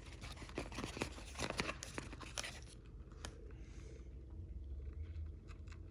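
A package being torn open and crinkled by hand: a run of tearing and crackling for about the first three seconds, then quieter with a few scattered clicks.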